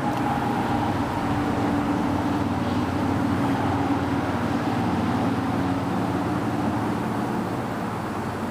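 Road traffic droning steadily, a tyre-and-engine hum with a few steady tones, easing slightly near the end.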